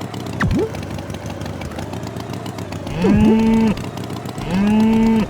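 Cartoon cow mooing twice, each moo a long steady call, with quick swooping pitch sound effects, one about half a second in and one with the first moo. Under them runs a steady engine-like rumble.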